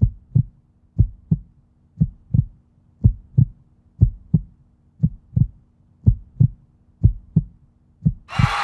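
Heartbeat sound effect: low double thumps, lub-dub, about one pair a second. Near the end a loud rushing noise starts.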